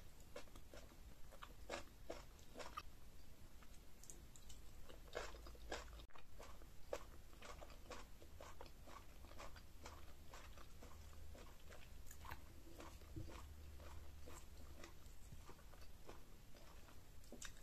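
Quiet close-up eating sounds of pounded yam fufu with slimy ogbono and okra soup: irregular soft wet clicks and smacks of chewing.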